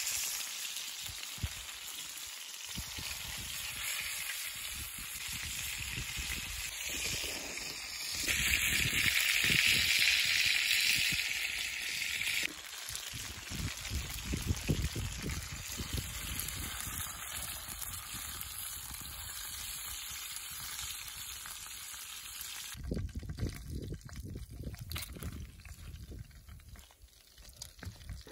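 A burger patty sizzling in hot oil in a frying pan set on wood embers: a steady frying hiss, loudest for about four seconds a third of the way in and then cutting off abruptly.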